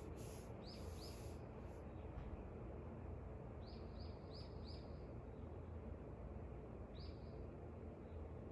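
Small birds chirping outside: short high chirps, a pair about a second in, a quick run of four around four seconds in and one more near the end. A steady low background noise of wind and ambient sound runs underneath.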